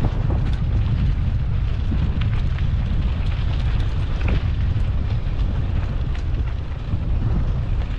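Wind buffeting the microphone of a moving mountain bike, a steady low rumble, with scattered short crackles and rattles from the bike on the trail.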